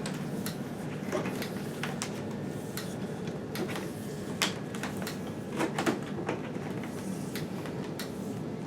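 Vacuum cleaner's power cord being wrapped up by hand: irregular light clicks and knocks as the cord and plug are handled against the vacuum, with the vacuum itself switched off.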